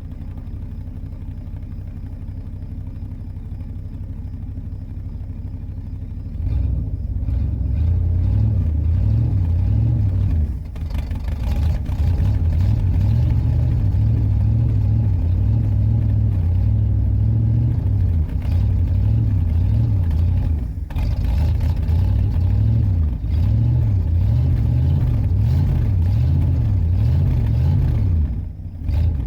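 A car engine's low rumble, stepping up louder about six seconds in, with short dips around ten and twenty seconds.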